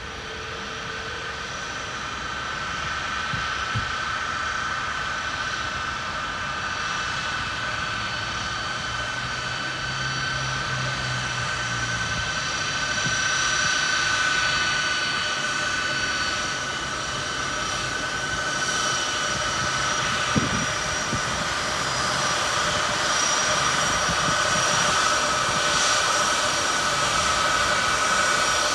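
Boeing C-17 Globemaster III's four Pratt & Whitney F117 turbofan engines running, a steady jet roar with a high whine, slowly growing louder. A single sharp click comes about two-thirds of the way through.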